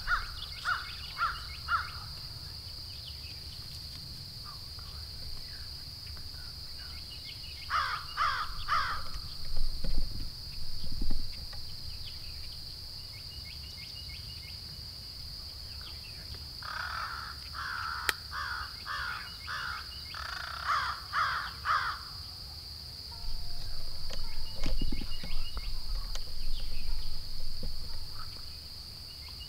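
Bird calls in three bouts of harsh, evenly repeated notes, about two to three a second, the longest run lasting about five seconds near the middle. A steady high-pitched insect drone runs underneath.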